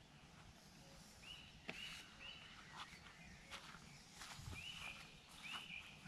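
A bird calling: about five short, high whistled notes, each rising and then holding, spaced out with pauses between them. Faint scattered clicks and rustles under them.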